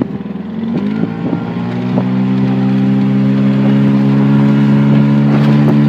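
HDX 9.8 R-series outboard motor speeding up about a second in, then running steadily at high revs. The owner hears a whistle from the motor whose cause he can't explain.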